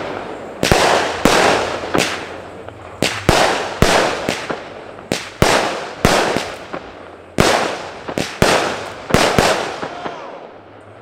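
Consumer fireworks going off: a string of loud, sharp bangs at uneven intervals, some in quick pairs, each trailing off in a rumble. They stop near the end.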